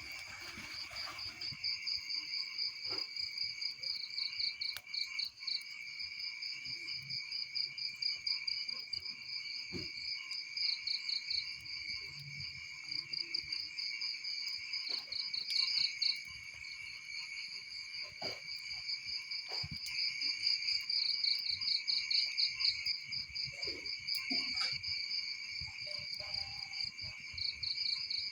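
A chorus of crickets chirping steadily, in two high pitch bands with fast pulsing trills that swell and fade every few seconds. Faint scattered clicks and crackles sound underneath.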